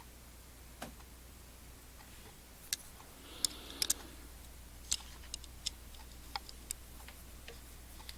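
Light, irregular clicks and taps of small hobby tools and parts being handled on a work surface, about a dozen in all, with a soft rustle near the middle.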